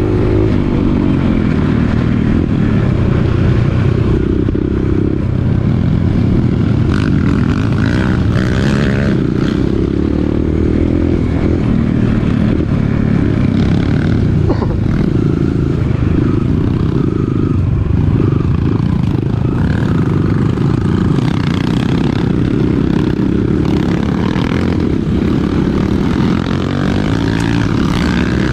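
Dirt bike engine running steadily while riding a rough forest trail, with a few short clattering knocks.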